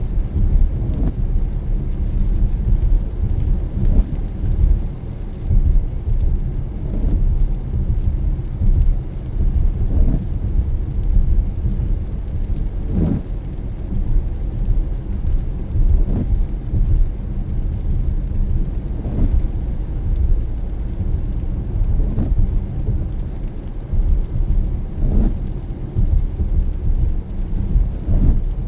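Road noise heard from inside a car driving in the rain: a steady low rumble of tyres and engine, with a short sound recurring about every three seconds.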